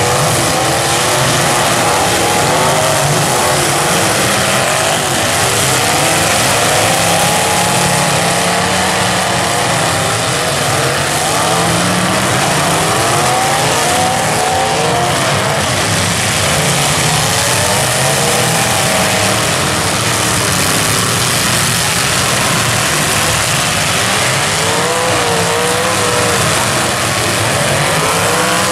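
Engines of many full-size demolition derby cars revving up and down at once, their pitches rising and falling over one another in a loud, continuous din.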